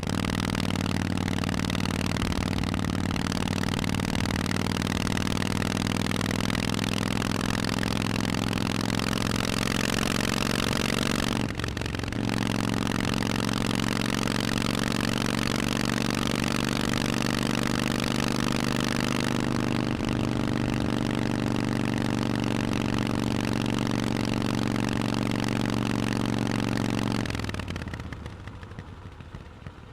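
Harley-Davidson Forty-Eight's air-cooled V-twin running through Vance & Hines aftermarket exhausts at a steady pitch. It breaks off briefly about eleven seconds in and drops away near the end.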